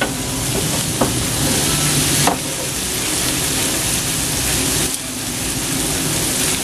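Bell pepper and onions sizzling as they fry for a sauce, with a steady hiss and a couple of short clicks, about one and two and a half seconds in.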